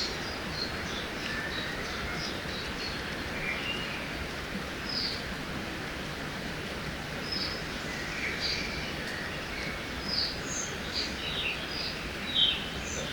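Forest ambience by a river: a steady rush of flowing water under scattered short bird chirps and calls. The chirps come more often in the second half, with one louder call near the end.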